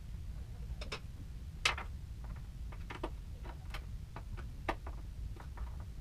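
Irregular light clicks and taps, about a dozen over a few seconds, over a steady low hum.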